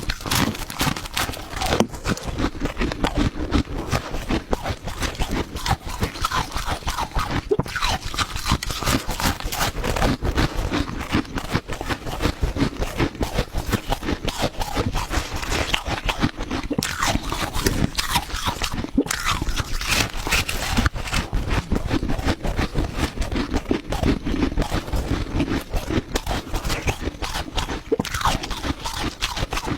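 A person biting and chewing chunks of hard ice, a dense run of crunches and crackles with no pause.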